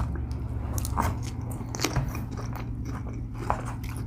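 Close-miked chewing and crunching of food, with a few short crackly crunches over a steady low hum.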